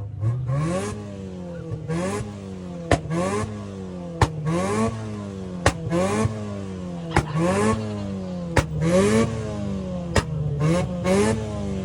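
Car engine revved hard again and again, the pitch climbing and dropping roughly every second and a half. A sharp crack comes with many of the revs.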